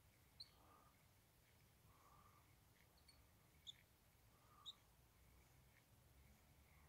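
Near silence at the waterside, with faint bird calls: three short, high chirps and softer, lower calls every second or so.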